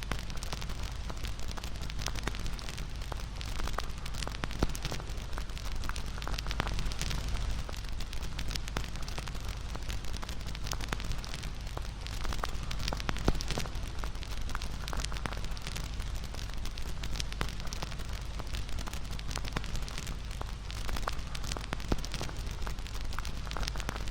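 Wood campfire burning, with a low rushing of flames and frequent irregular crackles and pops, a few of them sharper.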